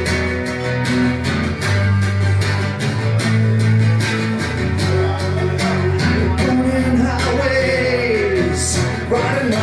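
Rock band playing live between sung lines: guitar and bass chords over a steady drumbeat, with a sliding melodic line in the second half.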